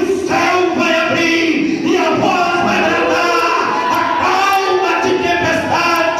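A congregation singing a hymn together, with held notes moving from one to the next.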